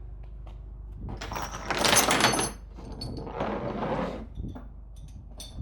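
Hand-cranked trailer winch being worked: two rasping, ratcheting passes of about a second and a half each, with a few faint clicks between.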